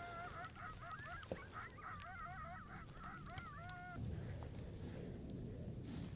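Coyote yipping: a quick string of short, wavering high-pitched yips for about four seconds, then it stops.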